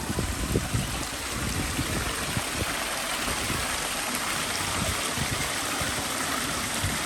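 Waterfall running steadily, an even rush of splashing water.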